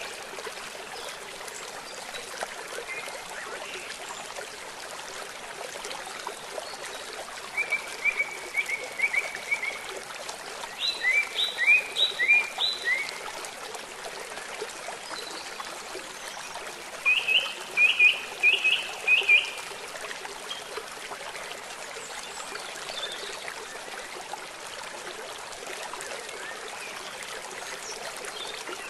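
Steady rush of flowing water, with three short runs of quick, high chirping calls, about 8, 11 and 17 seconds in, each lasting a second or two.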